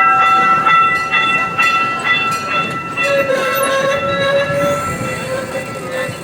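Gas-powered replica steam-engine tour train running, its rumble carrying several sustained high-pitched tones; a lower steady tone joins about halfway through.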